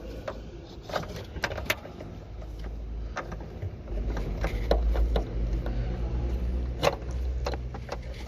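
Hands working on car wiring and plastic trim, fitting a connector: scattered sharp clicks and knocks, with a low rumble from about four seconds in.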